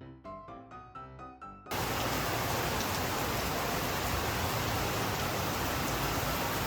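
A short piano melody, cut off about a second and a half in by heavy rain that starts all at once and keeps pouring loudly and steadily.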